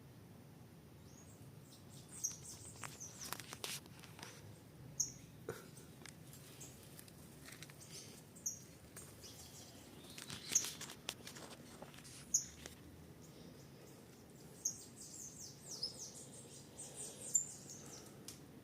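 Birds chirping: short high chirps every second or two, becoming a quicker run of chirps near the end, with a few faint clicks in between.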